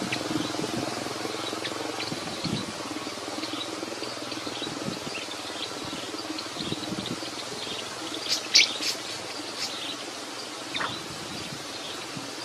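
Small birds chirping: scattered short, high chirps, with a louder cluster of chirps about two-thirds of the way through and a single falling note soon after, over a steady low background hum.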